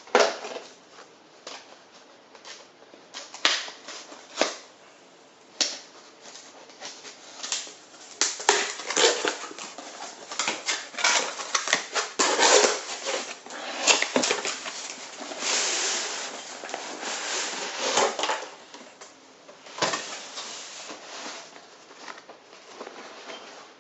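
A cardboard shipping box being opened by hand and its contents pulled out: irregular clicks, knocks and stretches of rustling and scraping of cardboard and packaging.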